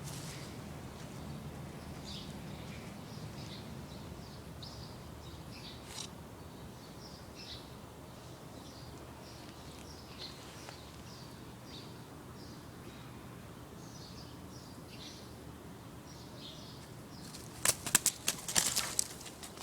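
A small bird chirping in short, high calls, one every second or so, over a steady low hum. Near the end comes a brief burst of loud rustling and scuffling.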